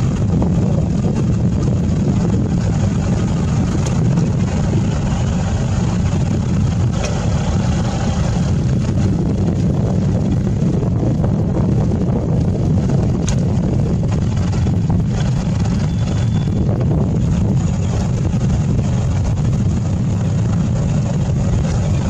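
Safari jeep's engine running steadily with a low rumble.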